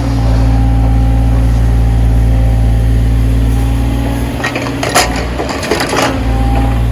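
Backhoe's diesel engine running steadily. A little past halfway the low engine note dips and wavers for a second or two, with a few sharp cracks, the loudest about five seconds in.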